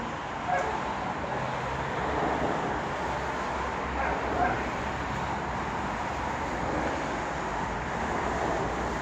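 A dog giving a few short barks, once about half a second in and twice around four seconds in, over a steady low background rumble.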